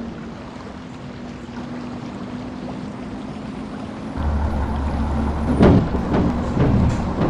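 An engine running steadily. About four seconds in, a deeper, louder drone sets in, as if the engine has come under heavier load. A few loud knocks or thumps follow near the end.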